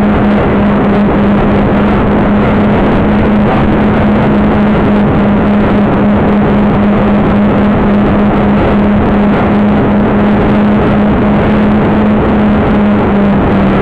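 Loud, steady wind buffeting on the microphone in strong wind, with a steady low hum underneath.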